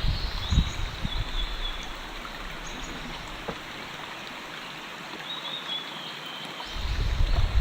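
A small creek babbling steadily, with a few faint chirps. A low rumble fades out about two seconds in and returns near the end.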